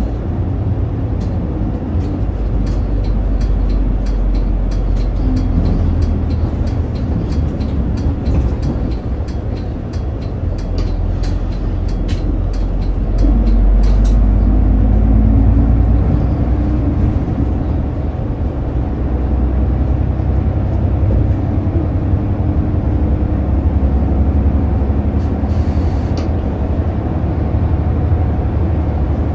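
City route bus heard from inside the cabin while driving: the diesel engine drones low and steady, then pulls harder with a rising pitch and gets louder about eleven to fifteen seconds in. Scattered light clicks and rattles come from the cabin.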